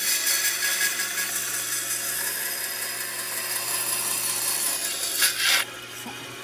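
A tool working wood, sawing or sanding, with a steady hissing noise. It starts suddenly, grows louder for a moment just after five seconds in, then stops.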